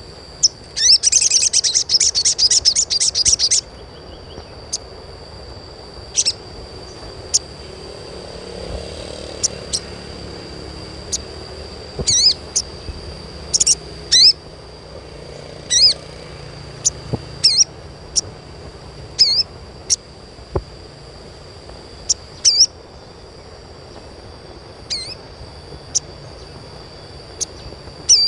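Sogon (sogok ontong) bird calling: a loud rapid chattering trill for the first few seconds, then single sharp, high chirps every second or two. A thin, steady high tone runs underneath.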